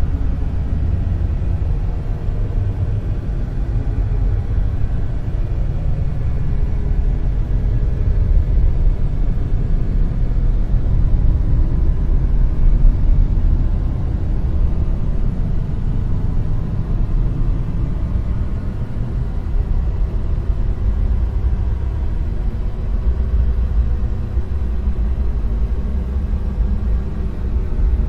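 Dark noise: a steady, deep rumbling hiss with its weight in the low bass. It swells slightly and eases back in slow waves.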